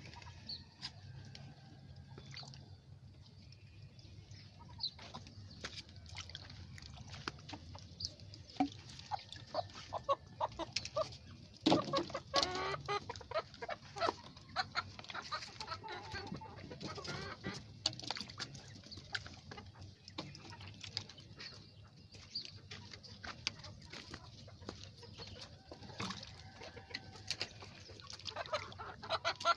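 Domestic chickens clucking among themselves, with many quick clicks and taps, busiest around the middle.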